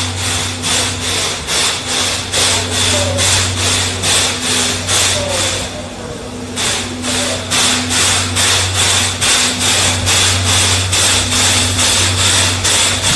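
Steam locomotive C11 123 chuffing in an even rhythm of about three beats a second over a steady low hum. The beats break off for about a second some six seconds in, then resume.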